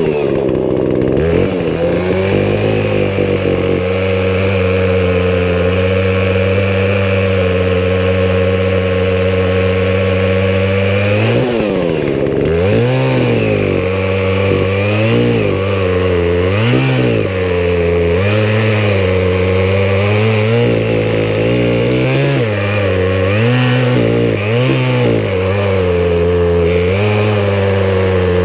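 Poulan Pro two-stroke chainsaw running, first at a steady pitch for several seconds, then with its revs rising and falling again and again about once a second.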